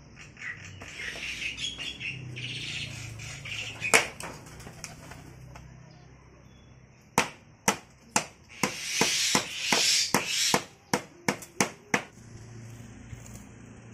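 Pet bird chirping, then a run of sharp taps mixed with rushes of wing-flapping.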